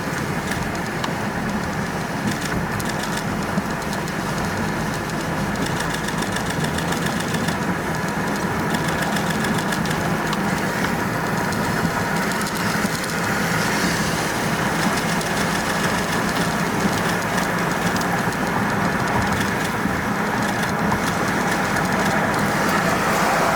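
Steady engine and road noise heard from inside a moving car, getting a little louder near the end.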